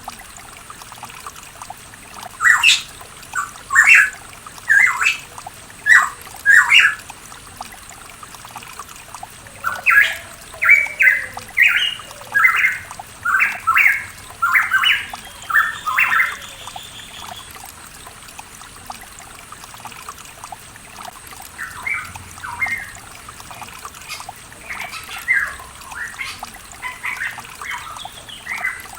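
Pitohui singing: runs of loud, short notes in two bouts, then softer calls near the end, over a steady trickling stream.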